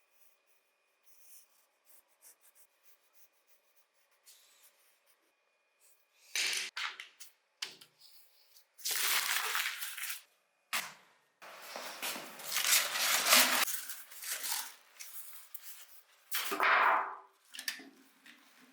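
Hands working on a die-cast model car: a few light clicks, then four loud rasping bursts of rubbing or scraping, the longest lasting about two seconds.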